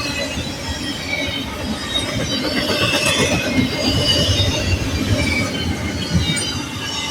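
Freight train cars rolling past, a steady low rumble with steel wheels squealing in short, scattered high squeals.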